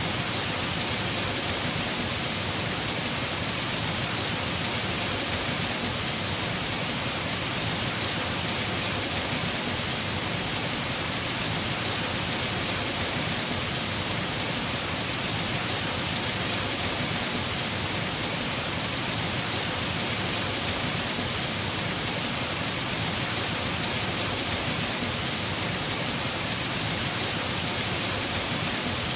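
Heavy rain falling steadily on a roof, a dense even hiss with no breaks or louder moments.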